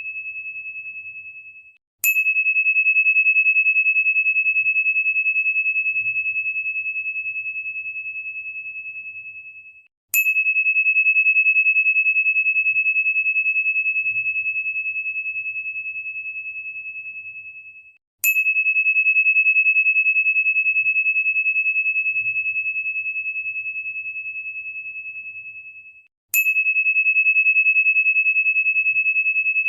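A single high, pure chime tone struck about every eight seconds. Each strike starts with a sharp tick, then rings and slowly fades until it is cut off just before the next strike.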